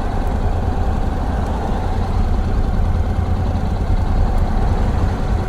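Motorcycle engine running steadily at low speed in stop-and-go traffic, a constant deep low hum.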